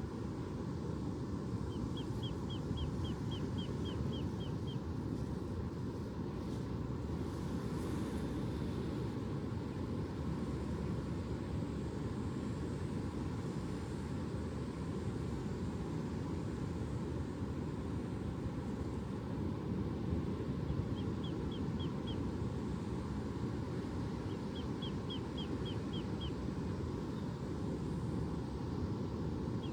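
Steady low rushing noise of ocean surf. A bird sings quick trills of short high chirps three times over it: near the start, about two-thirds through, and shortly after.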